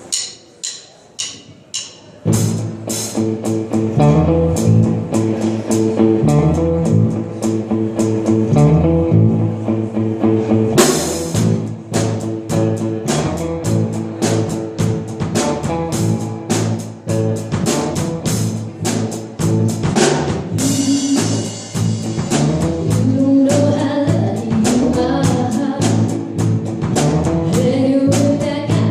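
Four count-in clicks, then a live band kicks in about two seconds later with drum kit, bass and electric guitar, playing a song at a steady beat.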